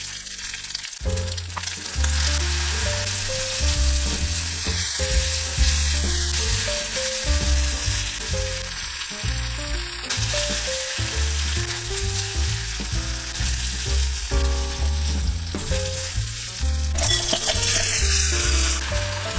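Food frying and sizzling in a hot pan, louder near the end, over background music with a bass line.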